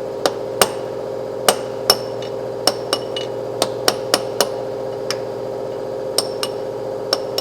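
Hammer blows ringing on a steel tool, driving the inner end of a Honda Civic front axle shaft out of the transmission: about fifteen sharp metallic strikes at uneven spacing, some in quick pairs, with short pauses between. A steady hum runs underneath.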